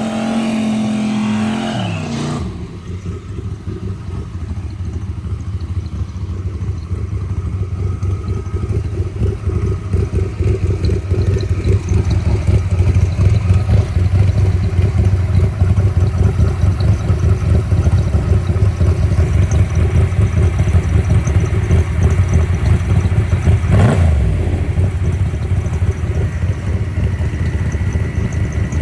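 1972 Corvette's 350 V8 running with a pulsing low exhaust rumble as the car drives, growing gradually louder. It opens with a falling pitched tone that ends about two seconds in.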